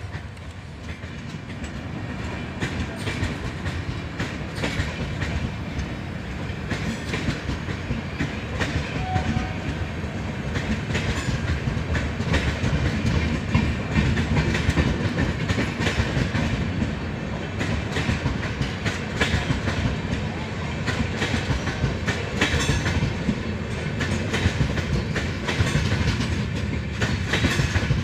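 Passenger train coaches rolling past, with the steady clatter of wheels over rail joints and a stream of rapid clicks. It grows louder over the first dozen seconds, then holds.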